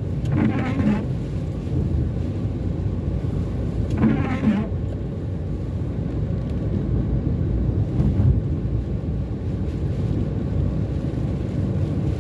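Car cabin noise while driving on a wet road: a steady rumble of engine and tyres. A brief sweep stands out roughly every four seconds, the windscreen wipers working in the rain.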